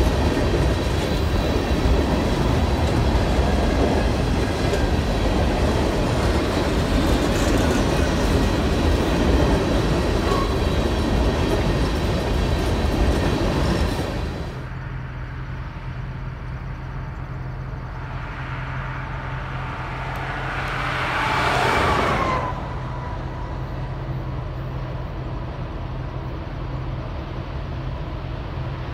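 Freight train tank cars rolling past close by, a loud, steady rush of steel wheels on rail. About halfway through it cuts off abruptly to a much quieter scene with a low steady hum, and a road vehicle swells past with a falling tone and fades about three-quarters of the way through.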